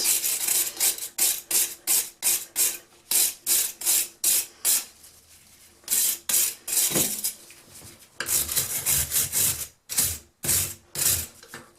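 Rapid back-and-forth scrubbing strokes on a rusty vintage steel auger bit, about three strokes a second, in several runs with short pauses.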